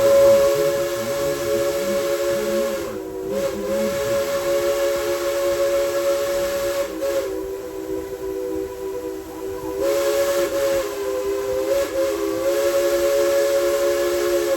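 Tweetsie Railroad steam locomotive #190's chime whistle blowing one long blast, several notes sounding at once as a chord. It softens in the middle, swells again, then cuts off sharply at the end.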